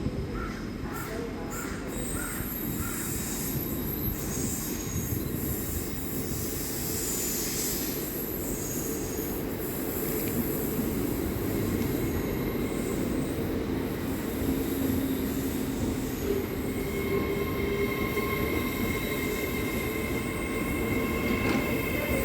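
Train moving slowly along the track with its steel wheels squealing. A low rumble gets gradually louder. High-pitched squeals come in the first half, and steadier ringing tones come in about two-thirds of the way through.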